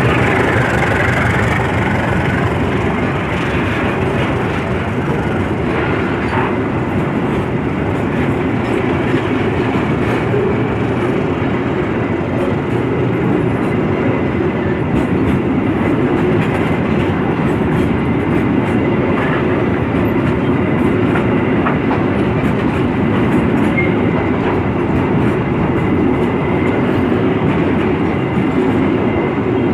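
Train running on rails: a steady, continuous noise of wheels and cars, loudest in the low range, with a faint whine in the first couple of seconds.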